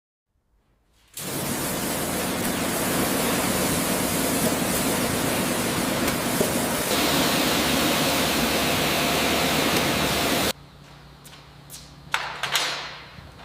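Loud, steady hissing noise that starts about a second in, grows slightly brighter around seven seconds, and cuts off abruptly about ten seconds in. It is followed by quieter clicks and a short whoosh near the end.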